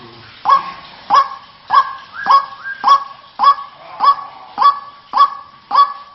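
White-breasted waterhen (ruak-ruak) calling, a loud honking note repeated evenly about every 0.6 seconds, around ten times.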